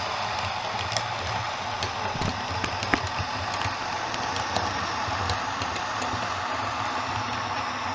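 OO gauge model train running on the layout's track: a steady running hum from wheels and motor, with scattered sharp clicks, the loudest about three seconds in.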